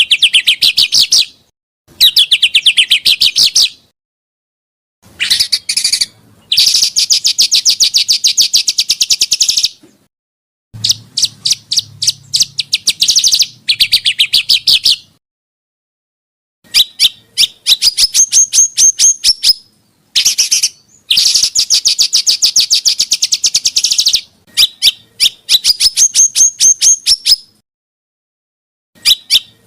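Small songbird in a bird-training (masteran) tutor recording, giving bursts of rapid, evenly repeated high chips at about ten a second. Each burst lasts one to three seconds, with sudden silent gaps between them.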